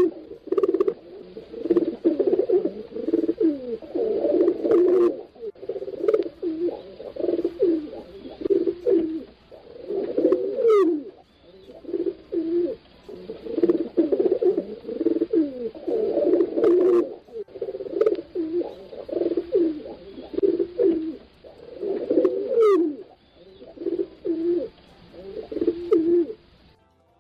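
Pigeons cooing, with low phrases that overlap and repeat every second or two, as from several birds at once.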